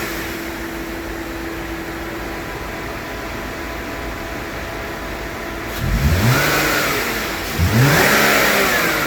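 Volvo V70's engine idling steadily, then revved twice in quick succession about six and seven and a half seconds in, each rev rising in pitch and falling back toward idle, as the owners try to bring out an intermittent noise.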